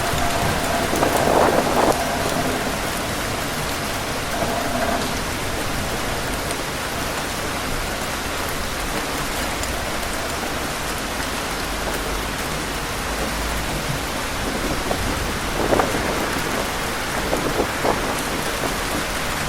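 Heavy rain falling steadily with wind, a dense continuous hiss, with short louder surges about a second in and again near the end.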